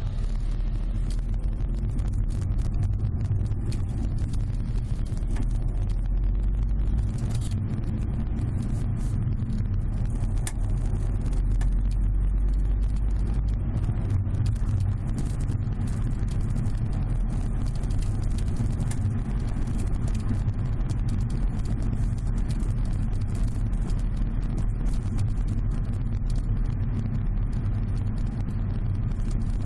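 Repeated sharp crackling clicks ("paki paki") from the rear hatch and luggage area of a Subaru Legacy BH5 wagon, over the steady low rumble of the car on the road, heard inside the cabin. The hatch and cargo-area trim, spare-tyre tray and tonneau cover are removed, and the cause of the clicking is still unknown.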